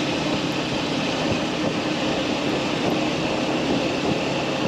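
Steady rush of wind and road noise from a moving motorcycle, with the engine's hum underneath.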